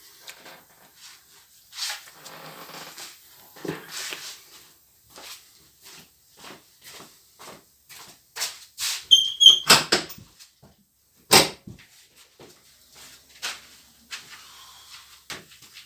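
Tools and parts being handled at a workbench: an irregular string of clicks and knocks. About nine seconds in there is a short high ring, like metal touching metal, and the two loudest knocks come shortly after.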